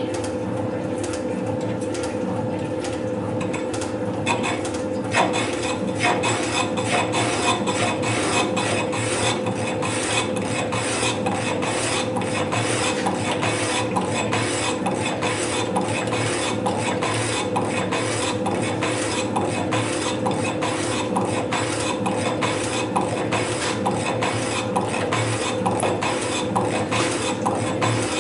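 Metal-cutting machine tool running: a steady motor hum with regular scraping cutting strokes, about two a second, that settle into an even rhythm about five seconds in.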